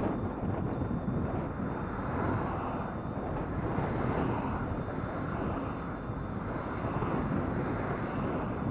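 Steady wind rush over the microphone of a camera riding on a moving e-bike, mixed with tyre and ride noise.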